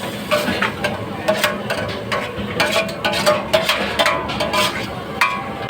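Metal utensils clinking and scraping against a cooking pan at a food stall, a quick run of sharp knocks with short ringing tones, over a steady background hum.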